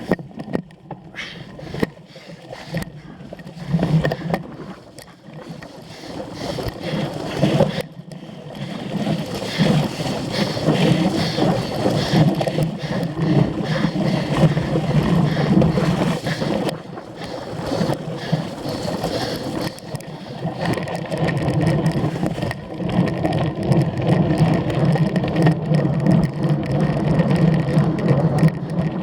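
Cyclocross bike ridden hard over rough ground: steady tyre and frame rumble with rattling, and wind buffeting the camera microphone, louder from about eight seconds in.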